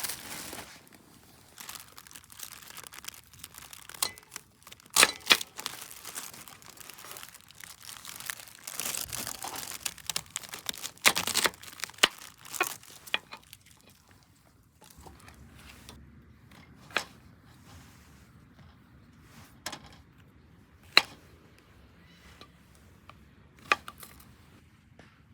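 Plastic food packaging being crinkled and torn open, dense for the first half with sharp clicks. It then gives way to a quieter stretch with a few single sharp knocks.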